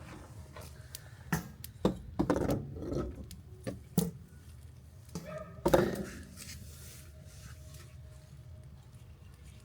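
A handful of sharp knocks and short clatters over a steady low rumble, as things are handled at a campfire. The loudest knock comes just before the six-second mark.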